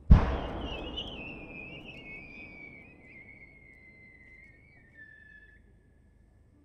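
Large aerial fireworks: a loud boom with a long rumbling echo, then a firework whistle that sounds for about five seconds, sliding slowly down in pitch before fading.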